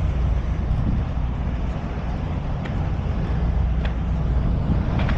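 Steady low rumble of a diesel truck engine running, with a few faint ticks.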